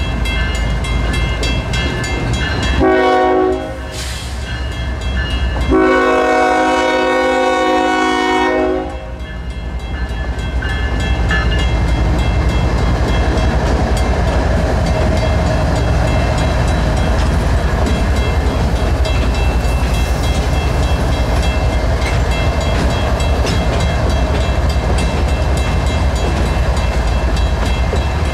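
A mechanical crossing bell rings steadily while the lead GE ES44DC locomotive's Nathan K5HL air horn sounds a short blast about three seconds in, then a long one from about six to nine seconds, closing the crossing signal. The two locomotives and the train's cars then roll through the crossing with a steady rumble and rail clatter.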